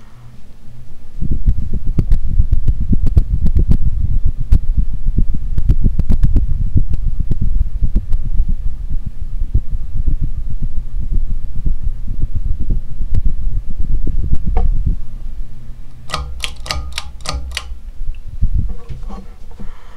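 NuTone Decorator ceiling fan running, with a loud low rumble dense with irregular clicks. A little after three-quarters of the way through comes a quick, even run of about eight sharp clicks, and then the sound drops quieter.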